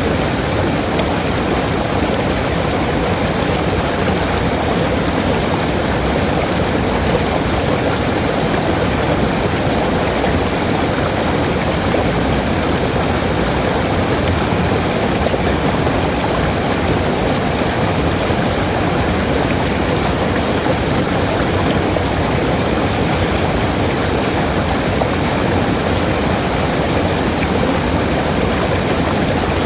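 Waterfall: falling water rushing in a steady, unbroken roar, strongest in the low and middle range.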